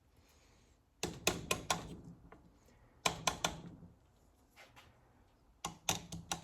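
Sharp clicks and knocks in three quick bursts of about four strikes each: one about a second in, one at about three seconds, and one near the end. They come from handling the parts and tools of a Ford Toploader four-speed transmission being rebuilt.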